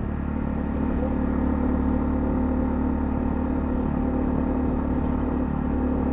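Honda CL250 motorcycle engine running at a steady speed, an even rumble with no revving up or down.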